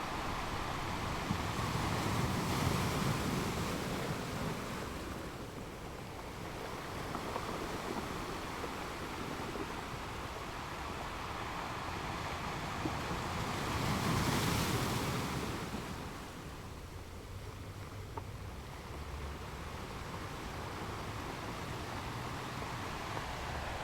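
Ocean waves breaking and washing ashore in a steady rush. Two larger waves swell louder, one a couple of seconds in and one just past the middle.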